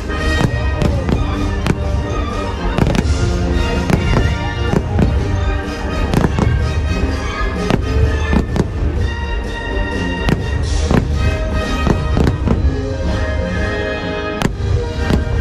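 Aerial fireworks shells bursting in quick, irregular succession, many sharp bangs, over loud show music.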